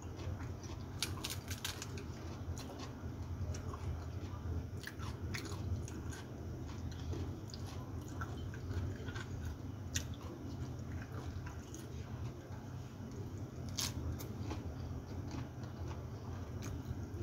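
A person chewing and crunching food close to the microphone, with scattered sharp crunchy clicks, as of raw lettuce and vegetables being bitten. A steady low hum runs underneath.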